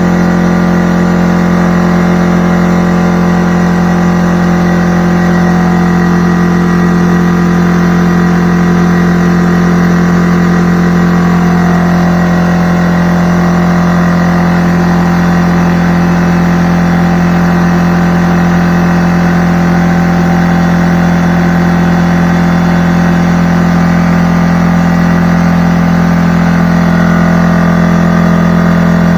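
McGraw 21-gallon air compressor running with a loud, steady hum.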